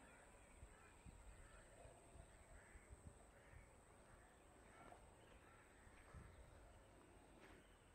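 Near silence: faint outdoor background with faint, scattered bird calls.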